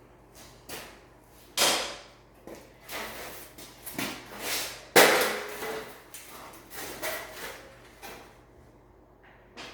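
A series of irregular knocks and clattering bangs from hard objects being handled, the loudest about a second and a half in and again about five seconds in.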